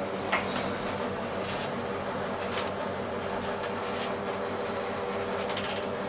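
Steady hum of a Kone MonoSpace elevator in service, with a few light clicks.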